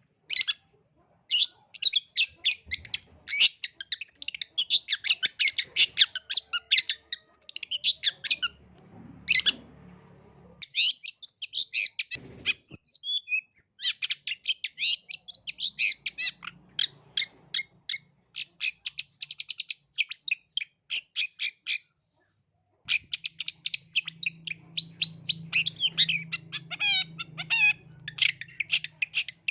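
Long-tailed shrike (cendet) singing a fast, chattering song of short, sharp notes with quick pitch slides, in long runs broken by a few brief pauses.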